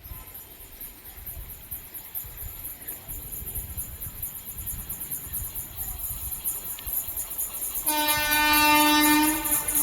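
An approaching train's rumble growing steadily louder, then a locomotive horn blown once for about a second and a half near the end.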